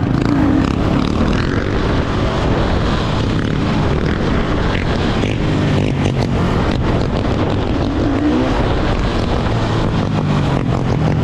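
A motor vehicle engine running steadily, with wind buffeting the microphone.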